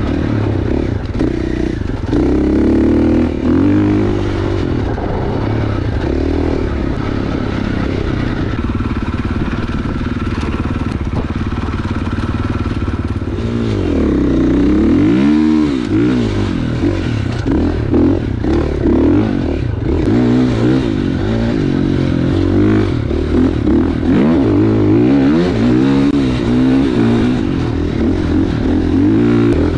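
Husqvarna FX 450's four-stroke single-cylinder engine running under way, its pitch rising and falling with throttle and gear changes. About halfway through it drops almost to idle, then revs back up.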